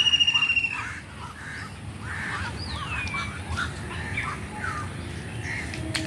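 Birds calling in a park: a loud buzzing trilled note in the first second, then scattered short chirps and one downward-sweeping whistle. A faint steady hum comes in near the end.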